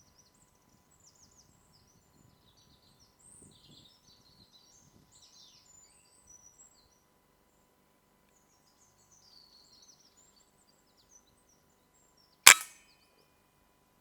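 A single air rifle shot, one sharp crack about twelve and a half seconds in. Before it, faint bird chirps.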